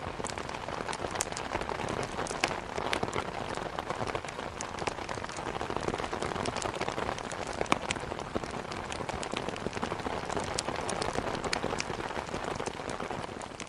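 Heavy rain falling steadily, with many sharp, scattered drop ticks over a dense hiss.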